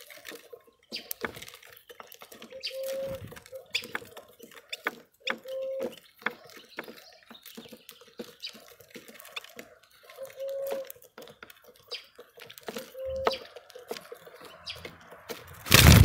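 Wild birds at a feeder: scattered sharp clicks and short chirps, with a short low call repeating every two to three seconds. A loud thump comes near the end.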